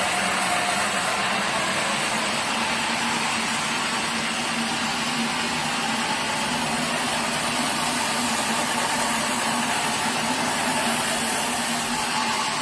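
Sawmill machinery running steadily: a continuous mechanical drone with a hiss over it, and a faint tone that fades in the first few seconds.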